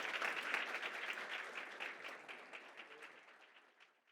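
Audience applauding at the end of a conference talk, a dense patter of many hands clapping that fades steadily away.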